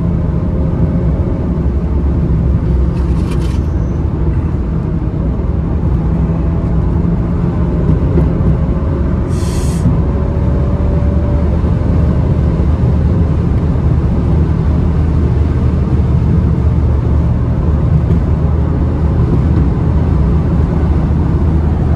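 Cabin sound of an Alfa Romeo Giulia's 2.0-litre turbocharged four-cylinder pulling hard at full throttle at over 90 mph: a loud, steady low drone mixed with road and wind noise. A brief hiss comes about ten seconds in.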